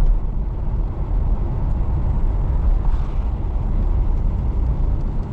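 Steady low rumble of a Pontiac Firebird running, heard from inside the cabin.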